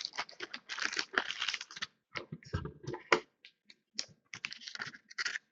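Trading cards being handled at close range: irregular small clicks and rustles that stop near the end.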